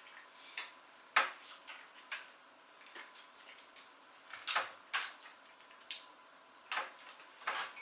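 Scattered clinks and knocks of cutlery and dishes on a table as people eat, a dozen or so separate sharp taps at irregular intervals.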